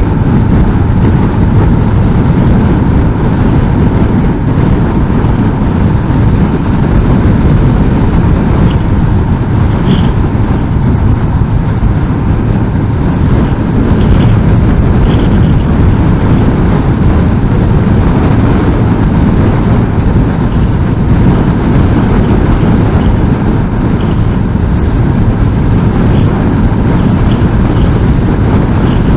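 Strong wind buffeting a motorcycle-mounted microphone at speed, a loud steady rumble, with the Honda NC750S's parallel-twin engine and road noise beneath it.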